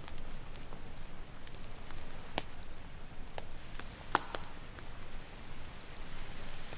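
Campfire crackling, with scattered sharp pops, the loudest a little after the middle, over a steady rushing wash of ocean surf.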